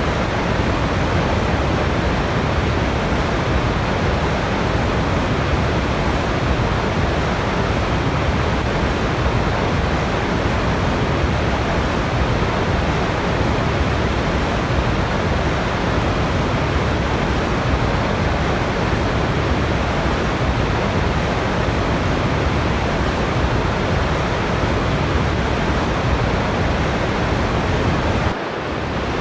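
Waterfall: a steady, unbroken rush of falling water, with a brief dip in level near the end.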